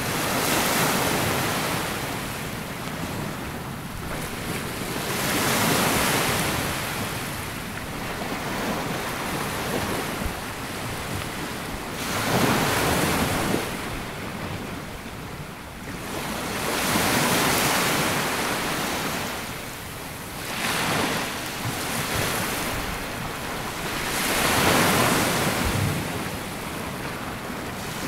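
Waves breaking and washing up a sandy beach. Each wash swells into a rush and fades, about every four to five seconds.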